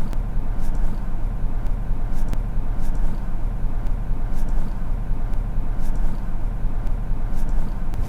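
Car driving along a town street: steady engine and tyre road noise with a low rumble, and a few faint, irregular clicks.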